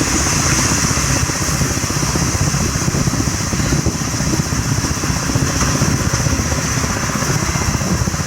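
Train in motion: a steady, loud rumble of running gear on the rails with a constant high hiss over it.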